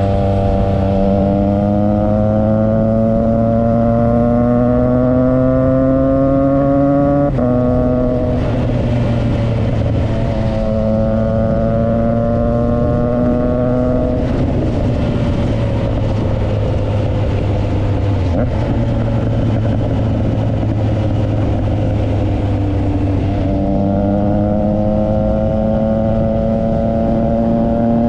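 Triumph Trident 660's inline three-cylinder engine through a Yoshimura exhaust, accelerating under load: the engine note climbs steadily, drops at a gear change about seven seconds in, and climbs again. Midway it holds a steadier note for several seconds, then climbs once more near the end.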